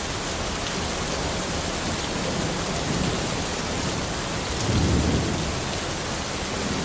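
Steady forest rain, with a low rumble of thunder swelling about five seconds in.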